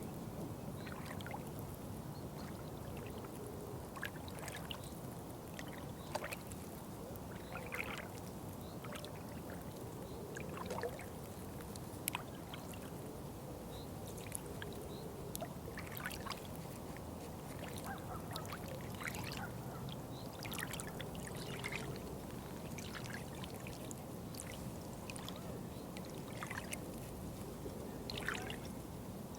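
Running water trickling steadily, with many small, irregular plinks and bubbles over a constant low wash.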